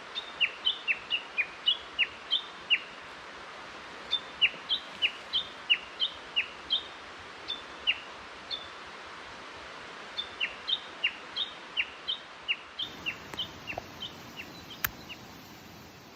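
A bird calling in bouts of short, sharp chirps that slide downward, about three a second, with short pauses between bouts, over a steady background hiss. A click comes near the end, and the sound fades out.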